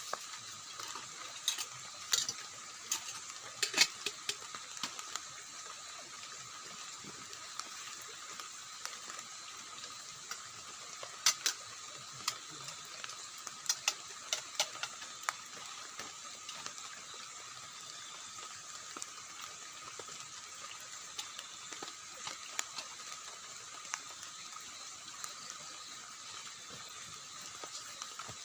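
Steady hiss of water with scattered sharp drips tapping, in small clusters a few seconds in and around the middle, typical of rainwater dripping onto a tent.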